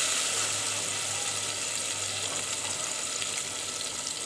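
Ground masala paste sizzling in hot oil with fried tomatoes in an aluminium pot, a steady sizzle that slowly eases as the paste settles in.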